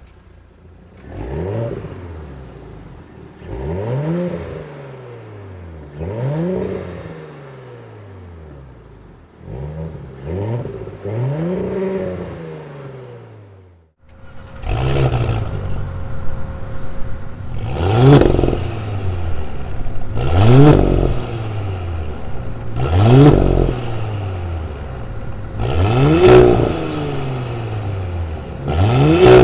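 Audi B9 S4/S5 turbocharged 3.0 V6 being revved repeatedly, each rev climbing and falling back. About five quieter revs in the first half, then a cut about halfway to a louder series of about six: the same engine heard with its stock downpipe and with a thick-wall cast aftermarket downpipe.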